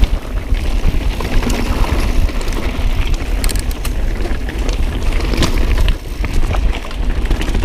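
Mountain bike riding fast down a rocky trail: wind buffeting the camera microphone with a heavy low rumble, and sharp clatters and knocks as the tyres and bike hit rocks.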